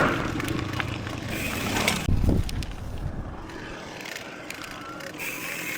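Mountain bike rolling over a trail, rattling and clicking, with the ratcheting tick of the rear hub freewheeling while coasting. A heavy low thump comes about two seconds in.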